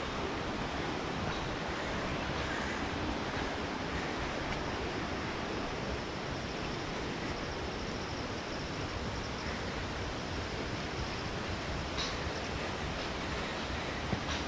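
Steady rushing of falling water from a waterfall, an even hiss with no change, broken only by a couple of faint clicks near the end.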